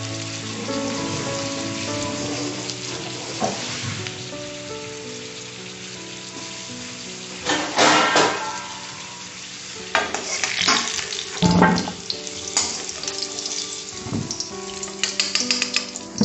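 Green papaya chunks frying in oil in an iron kadai, a steady sizzle. In the second half a steel ladle scrapes and clinks against the pan several times.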